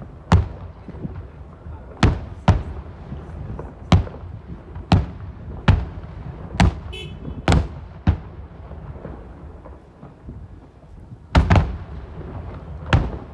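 Aerial fireworks shells bursting overhead: about a dozen sharp booms at irregular intervals, each trailing off in a short rumbling echo, with a low rumble of the display between them.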